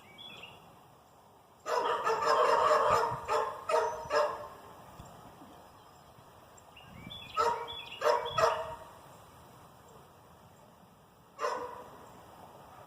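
A dog barking in three bouts: a rapid string of barks about two seconds in, a few more about halfway through, and one last bark near the end.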